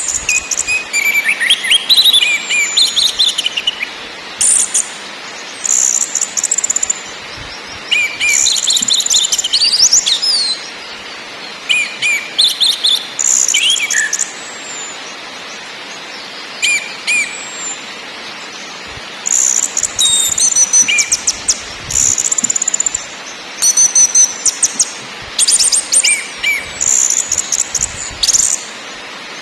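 Orange-headed thrush singing: repeated bursts of rapid, high chattering and whistled phrases with short gaps between them, over a steady hiss.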